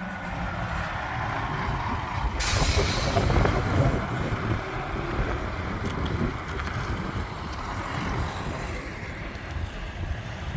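Heavy truck's diesel engine running as it moves slowly, with a sudden loud air-brake hiss about two seconds in that fades away over a second or two.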